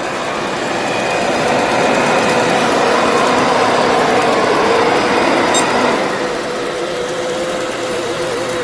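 ILIFE V10 robot vacuum running: a steady motor whir from its suction fan and brushes, carrying one constant tone, which shifts a little about six seconds in.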